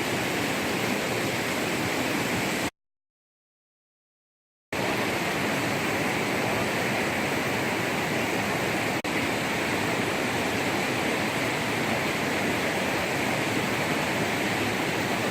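Steady rushing noise like flowing water, without let-up, cut to dead silence for about two seconds a few seconds in.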